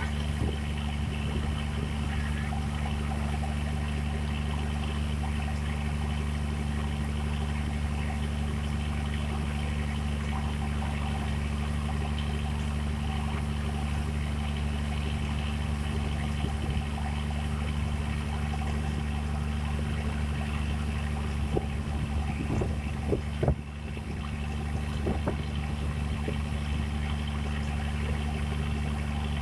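An engine running steadily at an even speed, with a few knocks and a brief drop in level about three-quarters of the way through.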